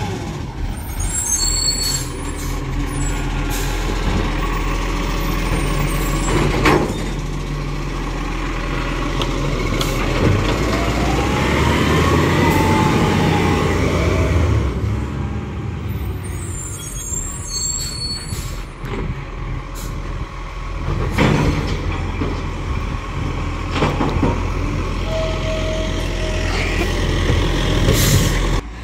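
Garbage truck's diesel engine running, with several short air-brake hisses over the steady rumble and a pitch that rises and falls about a dozen seconds in.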